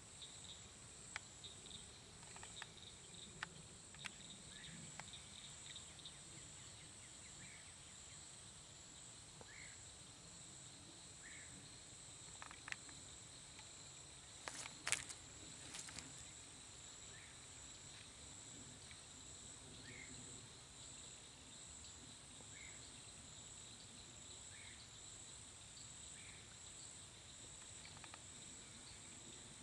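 Steady, faint, high-pitched insect chorus trilling with a slight pulse, with short faint chirps every couple of seconds. Scattered sharp clicks, the loudest a quick crackle about halfway through.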